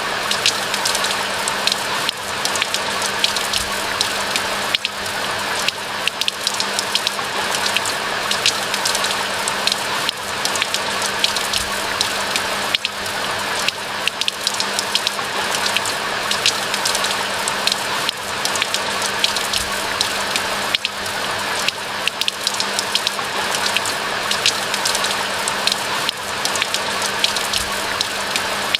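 Steady rain falling, a dense, even patter of many raindrops with frequent sharper drop ticks.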